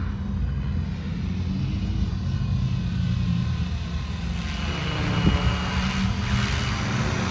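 Electric 450-size RC helicopter's motor and rotor whirring, growing louder and higher from about halfway through, over a steady low rumble.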